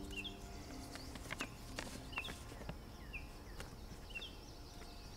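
A small bird repeating a short chirp about once a second, with a few crisp crackles of a paper letter being unfolded between one and two seconds in.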